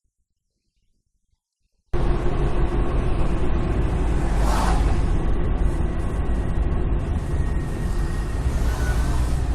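Silence for about two seconds, then a vehicle on the road: a steady low engine and road rumble, with a brief whoosh about halfway through.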